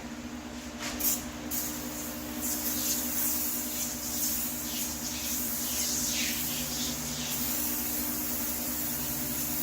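Aerosol can of Super Clean foam degreaser spraying in a long hiss, starting about a second and a half in and easing off after about seven seconds.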